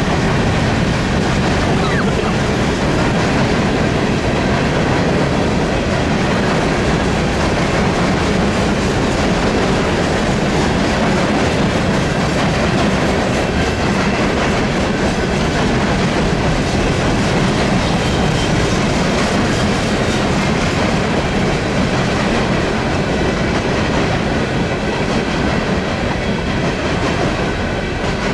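A long freight train of empty coke hopper cars rolling past, steel wheels running over the rails in a loud, steady rumble that does not let up.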